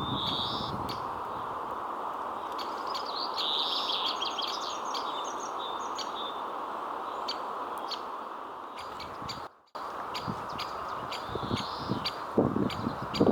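Birds chirping and calling in the woods, with many short sharp ticks scattered through, over a steady background hiss. A brief dropout cuts the sound about two-thirds of the way through.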